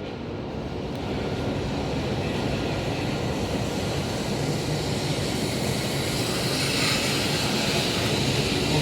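Shinkansen train running along the platform, a steady rushing noise that slowly grows louder, turning brighter and hissier in its second half.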